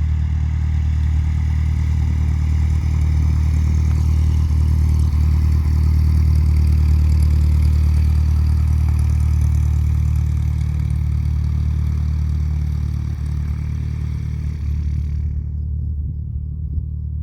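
Cessna 172M Skyhawk's four-cylinder Lycoming piston engine and propeller running at takeoff power as the plane departs: a steady, loud drone that swells to a peak about seven seconds in and then eases off.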